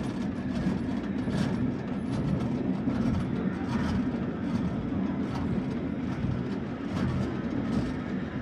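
Funicular cliff-railway car running on its rails: a steady rumble of wheels on track with irregular clicks and clacks.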